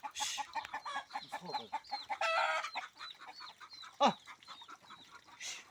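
A flock of chickens clucking and calling, with many short high chirps throughout. A loud, short call slides steeply down in pitch about four seconds in.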